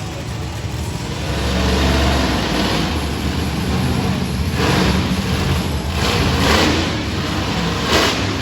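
Monster truck engine revving hard during donuts: a deep, steady low engine note that swells about a second in, with short surges of rushing noise several times in the second half.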